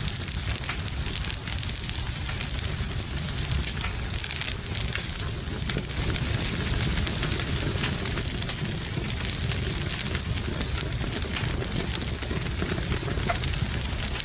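Wood fire crackling in a fireplace, dense small pops over a steady hiss of rain.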